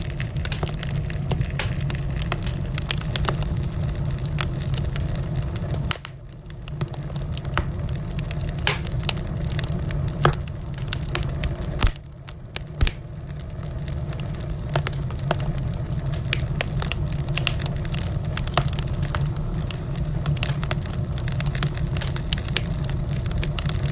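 Wood fire crackling in a fireplace: frequent sharp pops and snaps over a steady low rumble, with a few louder pops near the middle, where the sound briefly drops away twice.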